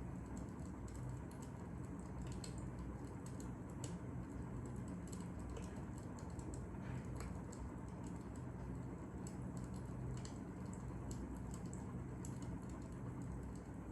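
Wood fire crackling: many small, irregular pops and snaps over a steady low hum.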